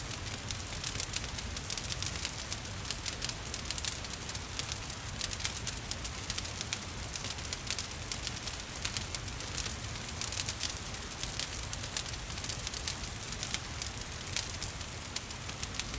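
Wood fire crackling with frequent sharp pops, over a steady hiss of gentle rain and a low rumble of the burning fire.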